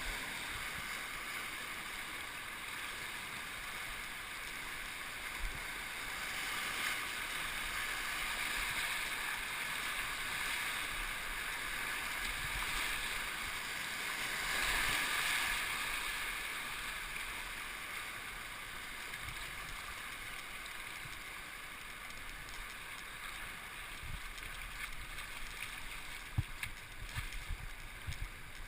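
Steady hiss of rushing river water that swells about halfway through, with scattered low thumps near the end.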